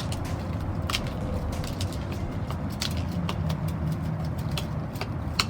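Small beads dropping out of a glove into a bowl, clicking irregularly, many separate ticks over a steady low hum.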